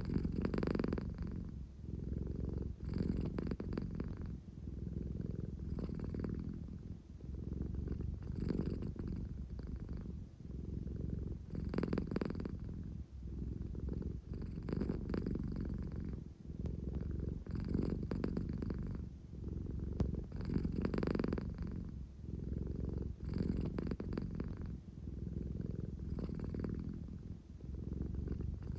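American Shorthair cat purring close up, the rumble swelling and easing with each breath about every three seconds. It is the purr she gives when sleepy but wanting affection.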